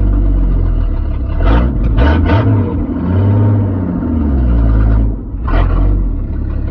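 Old truck's engine running while it is driven, a low rumble whose engine speed rises and falls a few times. A few brief rushing noises come over it, twice near the middle and once later.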